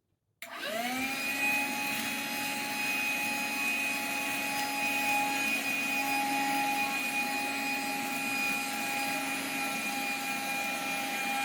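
Cordless handheld vacuum cleaner switched on about half a second in, its motor spinning up quickly to a steady high whine with a hiss of suction.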